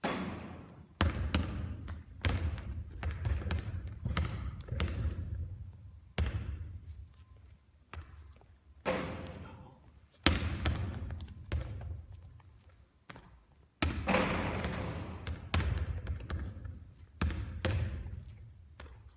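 Basketball bouncing repeatedly on a court floor during shooting practice, a run of sharp thuds that ring out and die away, coming every second or few seconds.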